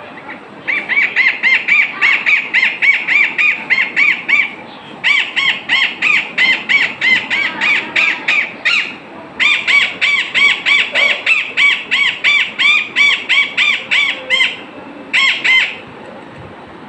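A bird calling in rapid, evenly repeated short arched notes, about four or five a second. The calls come in three long runs of several seconds with brief pauses between them, then a short final burst.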